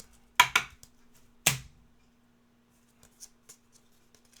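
Trading cards being handled between reveals: a few sharp taps and clicks, the loudest about a second and a half in, then faint ticks near the end, over a faint steady hum.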